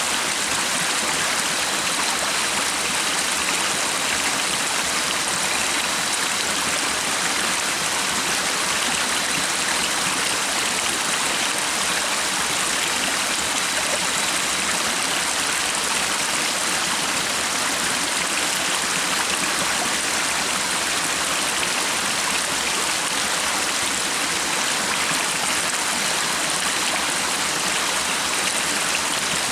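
Stream of running water flowing steadily, an even unbroken rush with no change in level.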